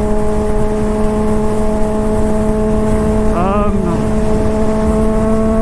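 Honda CBR600RR's inline-four engine with a new aftermarket exhaust, droning at a steady cruising rpm that edges up slightly near the end, over a rush of wind noise.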